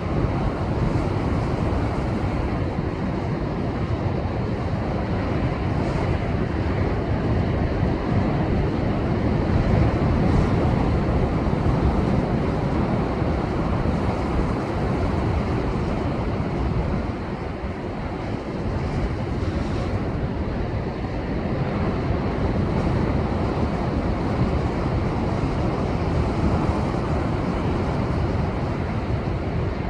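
Rough storm swell left by a passing typhoon, breaking against a rocky shore: a continuous, heavy wash of surf with a deep low rumble, possibly with wind on the microphone. It swells a little louder about ten seconds in and eases briefly a little past the middle.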